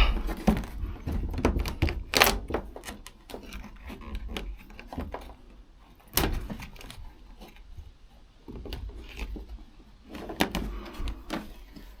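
Sound-deadening sheet being handled, peeled and pressed onto the cab's sheet-metal panels: scattered knocks and taps on the metal, the sharpest about two seconds in and six seconds in.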